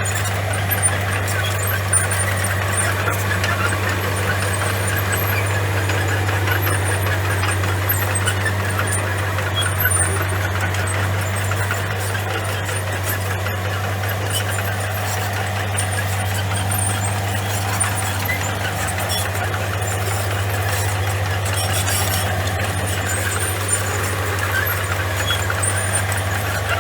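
Komatsu crawler bulldozer working: its diesel engine runs steadily under continuous squeaking and clatter from the steel tracks, with a few sharp clanks.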